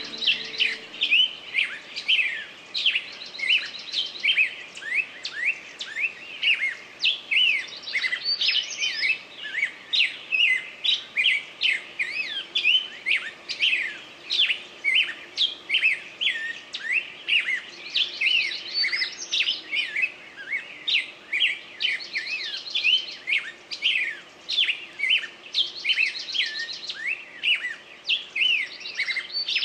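Songbirds chirping in a dense chorus, several quick chirps a second, with buzzy trills breaking in every few seconds.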